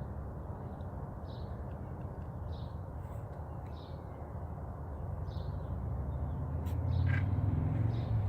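A bird chirps faintly and high about once a second over a steady low rumble, which grows louder near the end. A couple of light clicks come near the end.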